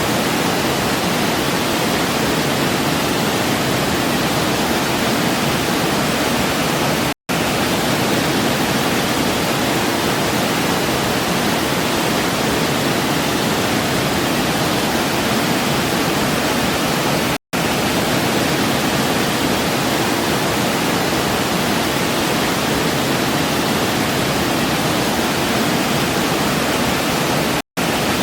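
Waterfall: a steady, even rush of falling water, cut by three very short silent gaps about ten seconds apart.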